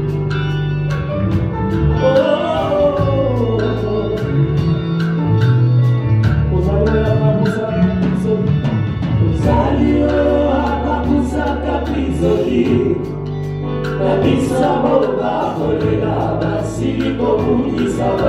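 Live gospel worship music: a band with sustained bass notes and a steady drum beat, with voices singing.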